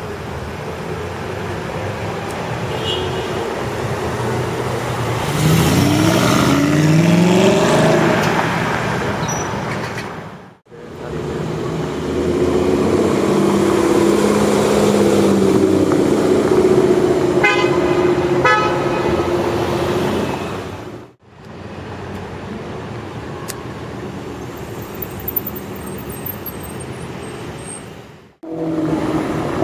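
Aston Martin sports car engines passing on the street in three short clips. In the first, the engine's pitch climbs as it revs up and accelerates away. In the second, it runs at a steady drone with a quick run of sharp crackles partway through, and traffic noise sits underneath throughout.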